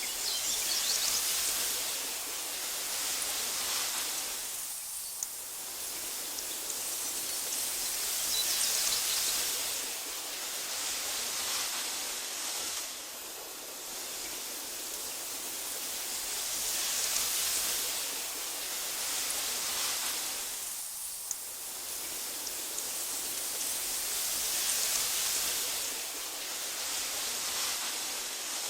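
Wind blowing through tall meadow grass: a steady, airy hiss that swells and fades in gusts about every eight seconds.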